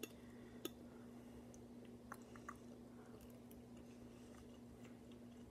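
Faint close-up chewing of a soft mouthful of eggs and cantaloupe, with a fork clicking on the plate near the start and a few small mouth ticks, over a steady low hum.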